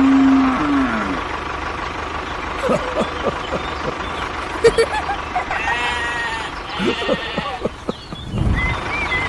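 Dubbed farm sound effects over a steady engine-like hum: a long low moo through the first second, scattered clicks and knocks, and a bleat about six seconds in, with a low thump near the end.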